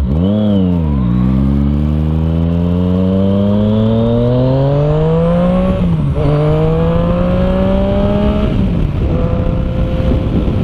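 Yamaha FZ-09's three-cylinder engine through an Arrow exhaust with the dB killer removed, heard from the bike while riding. A quick rev blip is followed by a long pull rising in pitch, a short dip at a gear change about six seconds in, and a second rising pull. The throttle closes about eight and a half seconds in, and the engine settles to a steady note.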